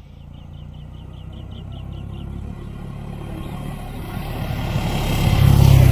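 Motorcycle engine running, growing steadily louder to a peak near the end.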